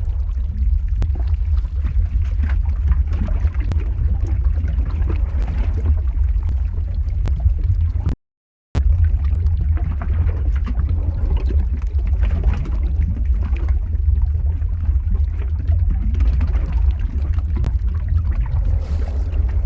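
Lava-flow ambience sound effect: a steady deep rumble with gurgling and scattered crackles. The sound drops out completely for about half a second a little before the middle.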